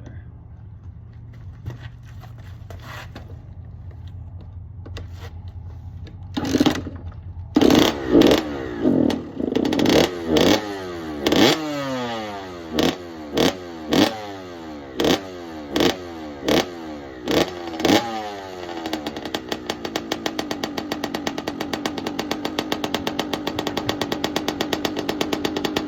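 Kawasaki KX65 two-stroke dirt bike engine on a cold start: after a few quiet seconds with faint knocks it fires about six seconds in, is blipped hard about a dozen times with the revs dropping back after each, then settles into a fast, steady idle for the last several seconds.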